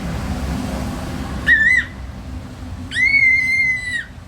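Two high whistled tones over a steady low background hum. A short wavering one comes about a second and a half in, and a longer, nearly level one comes about three seconds in and lasts about a second.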